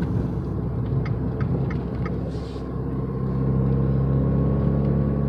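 Fiat 500 Abarth's 1.4-litre turbocharged four-cylinder running on the move, heard inside the cabin. Its steady note grows louder and firmer about three seconds in, as the car pulls under more throttle.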